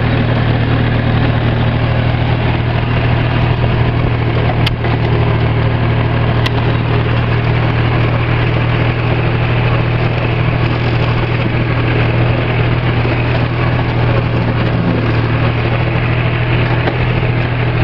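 Tractor engine running steadily at an even speed, a constant low hum, with two short clicks about five and six and a half seconds in.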